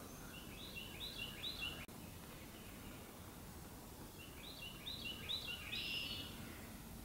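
A songbird singing faintly over steady background hiss: two phrases of quick, repeated chirping notes, one at the start and one about four seconds in. A single short click about two seconds in.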